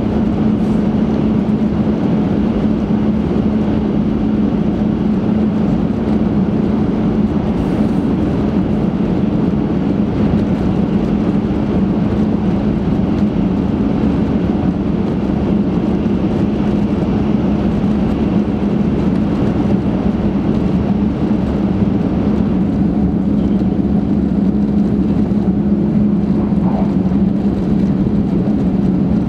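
Steady running noise of an 800 series Shinkansen at speed, heard inside the passenger cabin in a tunnel, with a low steady hum under the rumble.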